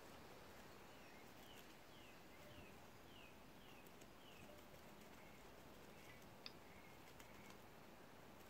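Faint outdoor quiet with a small bird calling: a run of about six short, falling notes roughly half a second apart, then a few softer notes and a single sharp click.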